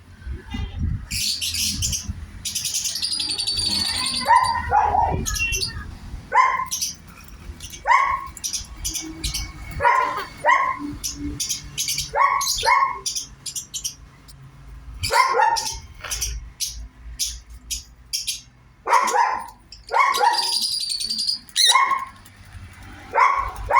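Sun conures calling while being hand-fed: short, harsh calls repeated every second or two, with longer raspy, hissing squawks near the start and again near the end.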